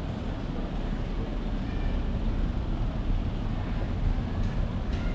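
Steady wind rumble on the microphone over road and traffic noise while riding.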